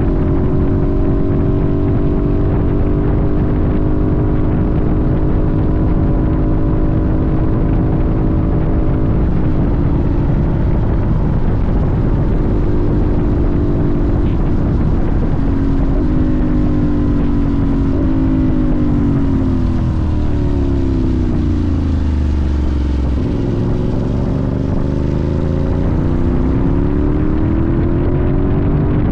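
Sportbike engine pulling at a steady cruise, then its note falls for several seconds as the bike slows and climbs again as it accelerates near the end. Wind rushes on the microphone throughout.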